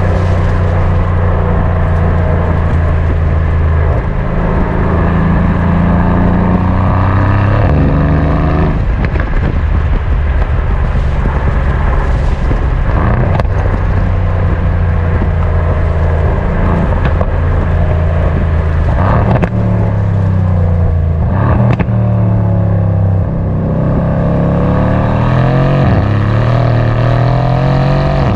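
Mercedes-AMG C63 S coupe's twin-turbo 4.0-litre V8 pulling on the road, its note climbing and dropping repeatedly through gear changes, with a few sharp cracks from the exhaust.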